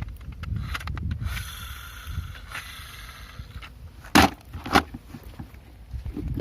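Rustling handling noise, then two sharp knocks about half a second apart.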